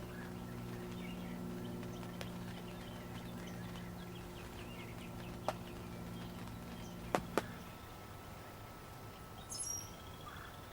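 Wild birds chirping in short, scattered calls over a steady low hum that stops about three-quarters of the way through, with a few sharp clicks.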